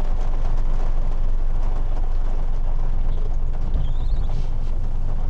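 A car's steady low rumble of engine and road noise, heard from inside the cabin.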